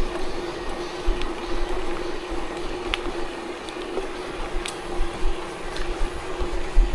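Tyres rolling over a gravel forest road, with a steady hum, small stones ticking now and then, and wind buffeting the microphone.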